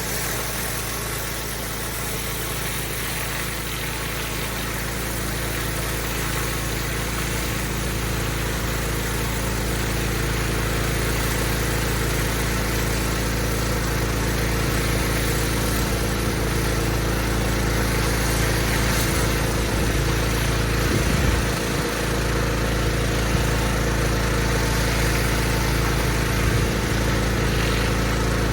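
Pressure washer's engine running steadily, with the hiss of a high-pressure water jet cleaning block paving.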